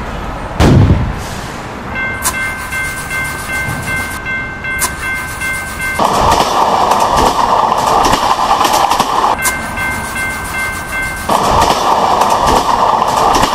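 Train sound effects. A horn sounds a held multi-tone chord twice, about four seconds and then about two seconds long. Between the blasts and after them comes the loud rushing noise of the high-speed train running on the rails. A short, very loud low thud that drops in pitch comes just under a second in.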